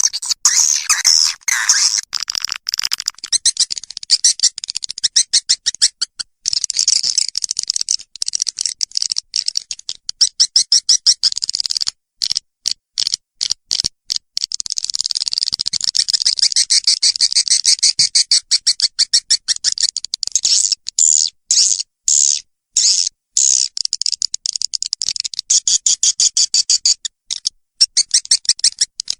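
Swiftlet calling sound for luring swiftlets to a nesting house: rapid, high-pitched twittering chirps repeated many times a second, cutting out abruptly for short gaps about halfway through and again around two-thirds of the way in.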